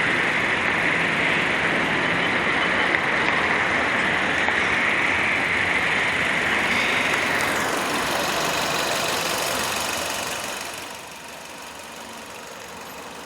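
1.6-litre inline-four engine of a 2013 Chery Tiggo idling under a steady rushing noise. The noise fades after about seven seconds and drops off sharply about eleven seconds in, leaving a quieter idle.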